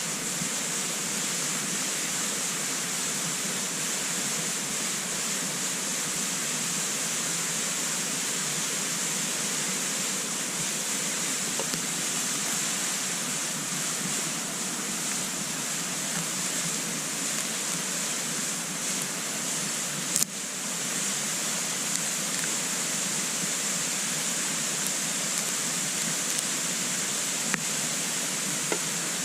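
Wood fire burning in a compact wood stove: a steady rushing hiss with a few sharp crackles, the loudest about two-thirds of the way through.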